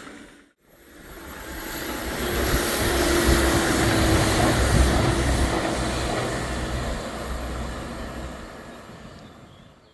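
A train passing over a railway viaduct: a rumble that starts just after a brief gap, swells to its loudest about four to five seconds in, then fades away.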